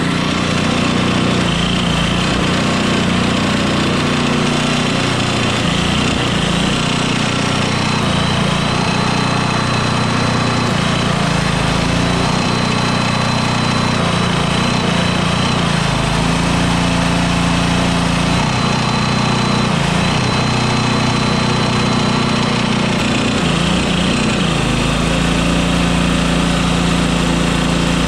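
Engine-driven WWII aircraft generator welder running steadily, its engine note shifting a few times, with a thin high whine that comes and goes. The welder is being tried out on a rusty steel plate, and the arc fails to start.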